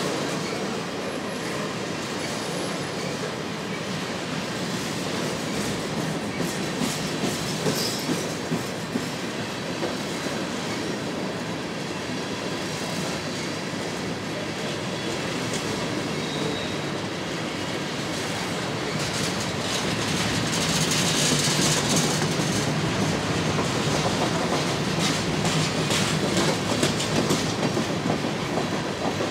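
Freight train of loaded-style three-bay covered hopper cars rolling steadily past, with a rumble and the rhythmic click of wheels over rail joints. It grows louder in the second half.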